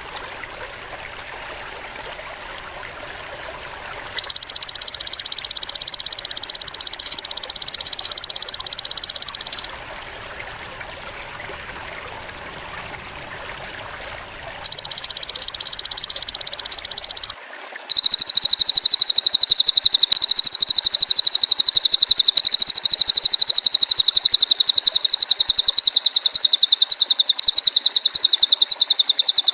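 High, shrill, rapidly pulsing trills of a cililin bird and a belalang emas insect, played as songbird tutor audio. Two bursts of a few seconds come first, then a louder, fuller trill runs for about twelve seconds near the end, over a soft trickling-water background.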